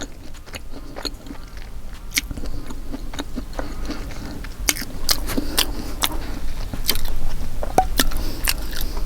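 Close-miked chewing of pepperoni and bacon pizza, with irregular wet smacks and crunches of the crust, growing louder in the second half.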